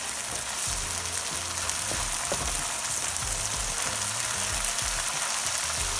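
Onions frying in hot oil in a pan, a steady sizzle with a few faint ticks, cooking until their raw smell is gone.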